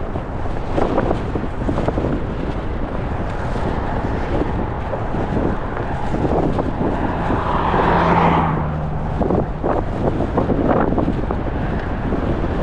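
Strong gusting wind buffeting the microphone, with a car driving past about eight seconds in.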